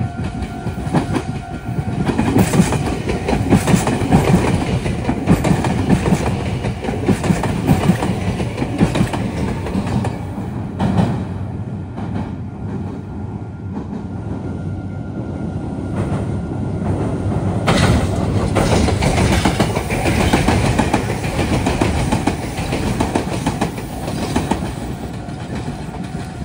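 Meitetsu electric train passing close by at a junction, its wheels clattering over rail joints and pointwork. The sound is loud, eases a little around the middle, then swells again.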